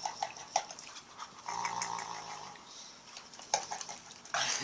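Pit bull making strange noises through the ball held in her mouth while the ball is shaken and her nose is rubbed. A run of quick clicks and taps, a longer noisy sound about two seconds in, and a louder breathy burst near the end.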